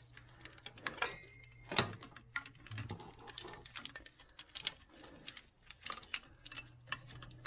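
Irregular light clicks and taps, several a second, of hands working a wiring harness and its plastic connectors into place in an engine bay.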